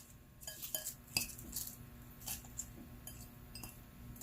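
Light clinks and taps of kitchen utensils and dishes being handled, a few soft, scattered strikes, some with a brief ring.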